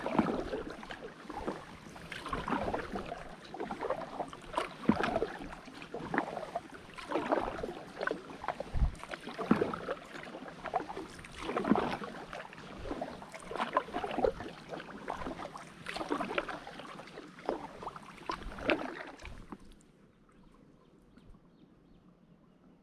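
Kayak paddle strokes dipping into water, with rhythmic splashes and drips that alternate from side to side about every second. The strokes stop suddenly near the end, leaving only a faint hush.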